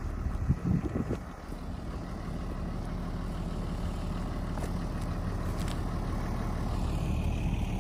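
Tractor engine running steadily with a low hum, with a few louder bumps in the first second or so.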